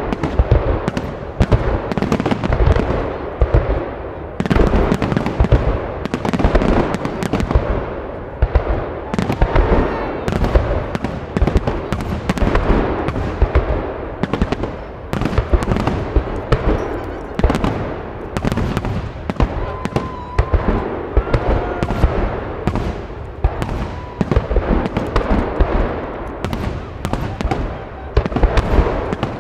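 Fireworks salute: aerial shells bursting in a dense, continuous barrage, loud bangs following one another without a break.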